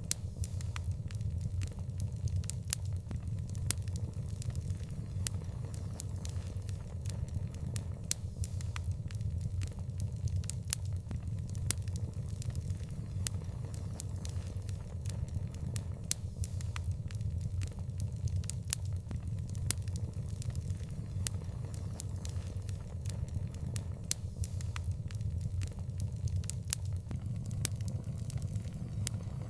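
Wood fire burning, with sharp irregular crackles and pops over a steady low rumble of the flames.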